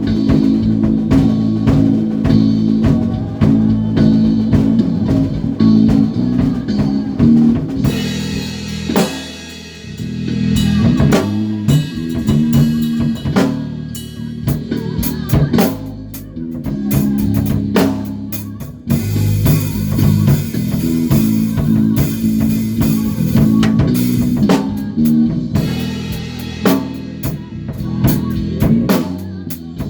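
Band playing live: a drum kit, a bass guitar and a guitar. The drums hit steadily over held low bass notes, and cymbals wash louder about two-thirds of the way through.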